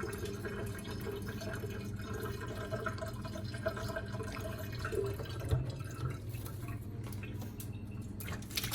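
Water running from a tap into a sink: a steady low trickle with faint drips.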